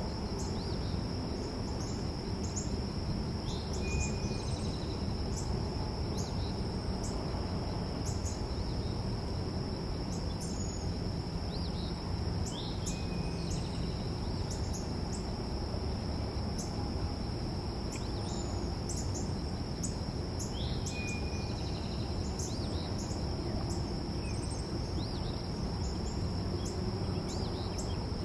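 Outdoor ambience: a steady high-pitched insect drone over a low background rumble, with short bird chirps and brief whistled notes every few seconds.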